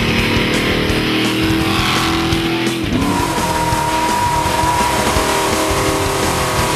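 Race truck's engine running hard with tyre squeal, under rock guitar music.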